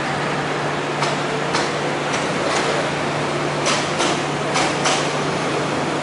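An MTR Tsuen Wan line train rolling slowly past, its wheels clicking over rail joints, some clicks in pairs a fraction of a second apart, over a steady running noise and low hum.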